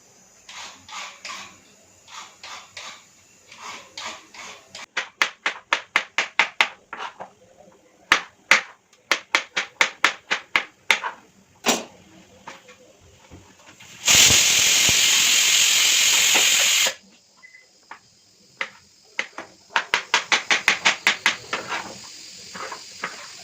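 A knife chopping vegetables on a cutting board in quick runs of strokes, about five a second. About fourteen seconds in, a loud steady hiss cuts in for about three seconds and stops abruptly.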